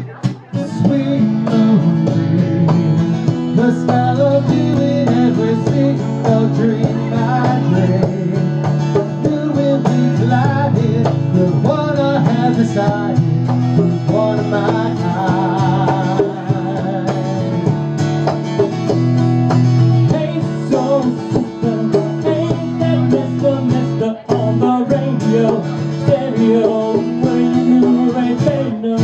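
Live band music with strummed and plucked strings, guitar to the fore, playing steadily without words.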